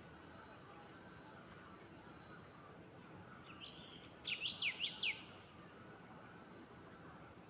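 A bird calling: a short run of about five quick, high notes that sweep downward, about four seconds in. A faint steady background hiss runs underneath.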